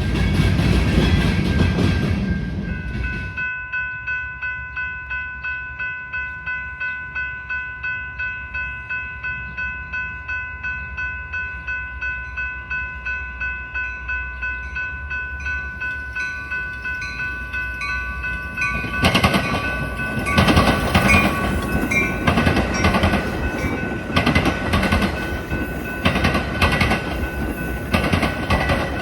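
Loud rail-traffic rumble cuts off about three seconds in. A railroad grade-crossing bell then rings steadily, about two strokes a second. From about two-thirds of the way through, a train passes with a loud rumble and rapid clatter of wheels over rail joints, the bell still ringing underneath.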